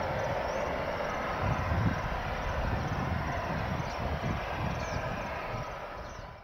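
Boeing 767 jet engine noise, a steady roar with gusty low rumble, fading in the last second before the sound cuts off abruptly.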